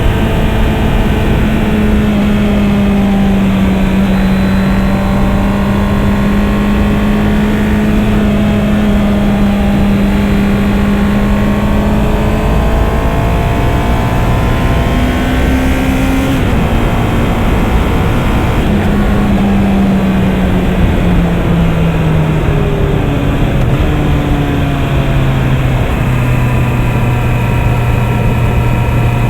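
Honda CB650R's 649 cc inline four-cylinder engine running at a steady cruise, its pitch rising briefly about halfway through, then falling as the bike slows and settling at a lower, steady note near the end, with steady wind and road rush underneath.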